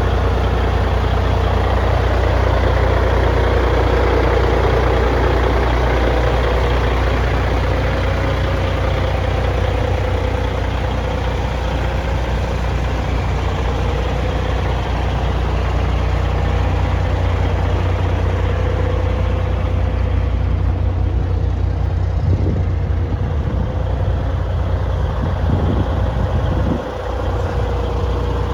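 Cat diesel engine of a 1995 Ford Aeromax truck idling steadily, with a steady whine over the low running note and a brief drop in level near the end.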